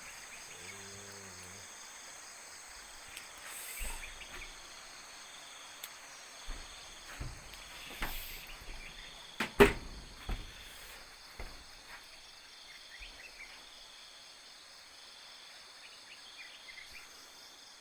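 Steady high-pitched insect chorus at dusk, with scattered dull knocks and one sharp click a little under ten seconds in.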